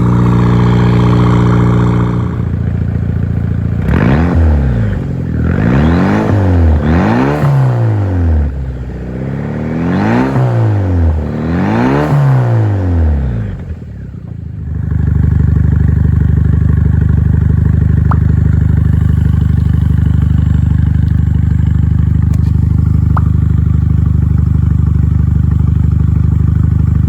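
Daihatsu Copen L880K's 660 cc turbocharged four-cylinder, tuned to 100 hp, running at a steady speed. It is then revved several times, each rev rising and dropping back, and then settles into a steady idle.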